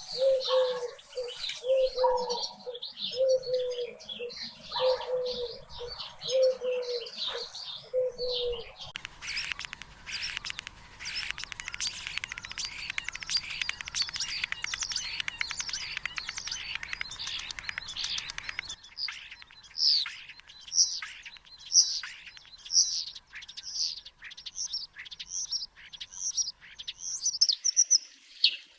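Wild birds singing and chirping. For the first third, a low coo repeats about once a second under high chirps. Then there is a dense, busy chorus of chirps. The last third is a series of high, sharply falling whistled notes about once a second.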